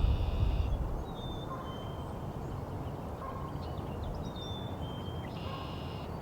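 Several songbirds singing: a short buzzy trilled phrase at the start and another near the end, with thin high whistled notes in between. A low rumble fades out during the first second.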